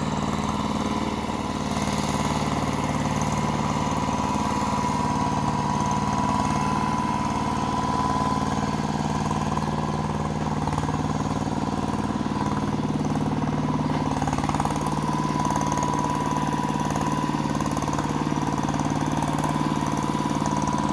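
LandMaster hand tractor engine running steadily, with an even drone and a constant high whine.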